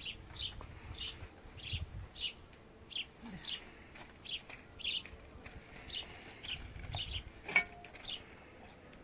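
A small bird chirping over and over, short high chirps about twice a second, with one sharp knock about three-quarters of the way through.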